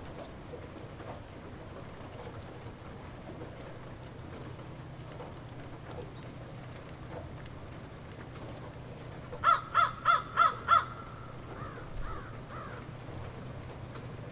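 Steady light rain over a low hum. About two thirds of the way through, a bird calls five times in quick succession, loudly, then gives three fainter calls.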